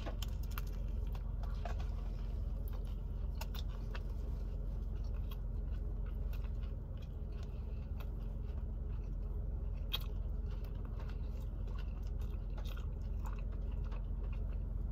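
A person biting into a meatless turkey club sub and chewing it with the mouth close to the microphone, with scattered wet mouth clicks. A steady low hum runs underneath.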